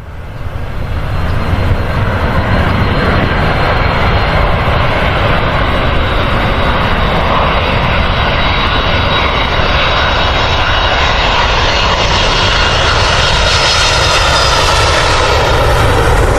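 Airliner engines running loud and steady: a dense rush of engine noise with a faint high whine, growing brighter and hissier over the last few seconds.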